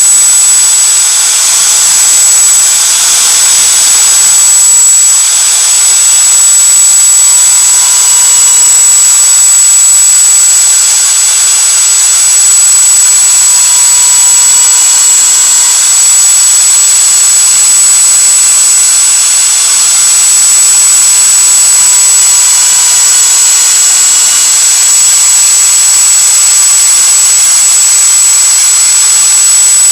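Fiolent 1.1 kW router running as the spindle of a CNC milling machine, carving wood, with a steady high whine and hiss. The whine dips slightly in pitch twice, about halfway through and again about four-fifths through.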